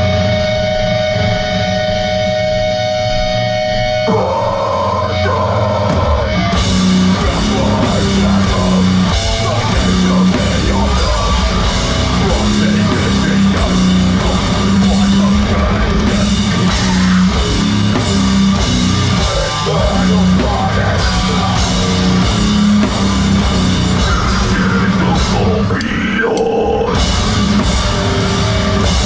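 A loud live heavy rock band playing distorted electric guitar, bass and drums. A held guitar chord rings over the bass for the first few seconds, then drums and cymbals come in with the full band about six seconds in.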